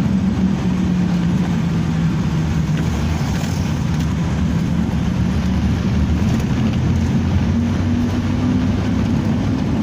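Motor vehicle running on the road: a steady engine hum with road rumble, its pitch edging slightly higher near the end.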